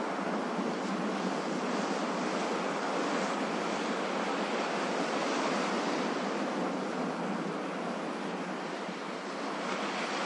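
Ocean surf: a steady rush of breaking and washing waves, easing slightly about eight seconds in before swelling again.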